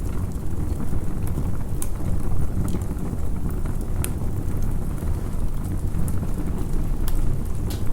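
Campfire burning, with a steady low rumble and scattered sharp crackles and pops from the burning wood.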